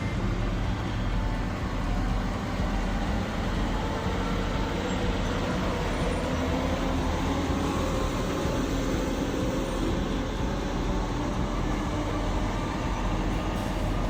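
Log truck engine running steadily as the truck drives, a continuous low rumble with road and mechanical noise.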